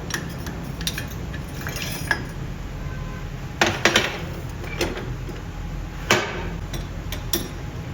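Metal parts clinking and clanking as they are handled, with a quick cluster of three knocks about four seconds in and another sharp clank about six seconds in, over a steady low hum.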